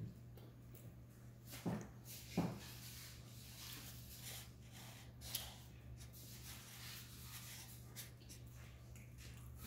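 Faint eating noises as cheeseburgers are chewed, with light rustling and two short, louder noises about two seconds in, over a steady low hum.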